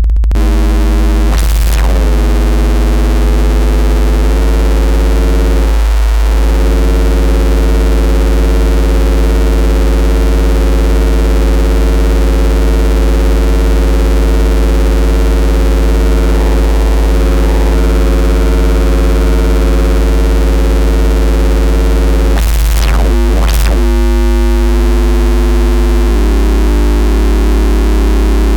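FM synthesizer bass patch in Bitwig's Polygrid holding one continuous droning note with a very strong deep bottom. Its pitch sweeps sharply down and back up once near the start and twice about 22 seconds in, and its tone changes near the end as the patch is adjusted.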